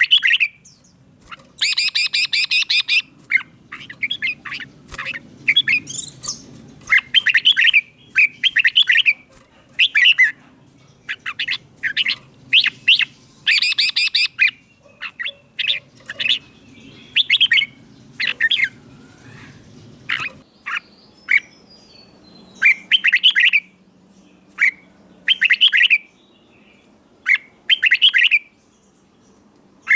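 Red-whiskered bulbul singing: short, bright whistled phrases repeated again and again with brief pauses, with a harsh, scratchy chattering burst about two seconds in.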